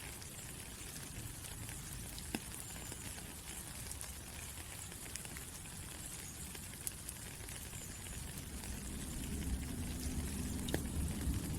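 Steady rainfall, an even hiss with scattered drop ticks and a few louder single drops. A low rumble builds from about two-thirds of the way through.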